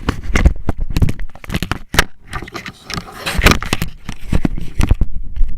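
Irregular knocks, clicks and scrapes of gear being shifted about on a plastic fishing kayak, with a low rumble underneath.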